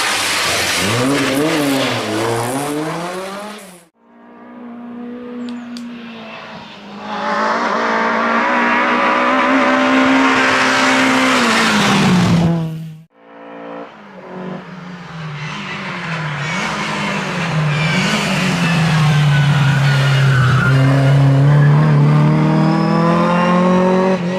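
Historic rally car engines at full throttle, revving up and dropping in pitch through gear changes. Three separate passes are joined by two abrupt cuts.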